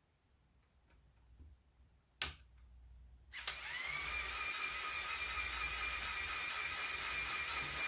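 LEGO Technic Airbus H175 helicopter's electric motor and gear train spinning the rotors: a sharp click about two seconds in, then the motor starts just after three seconds, its whine rising briefly and settling into a steady high whine with gear noise.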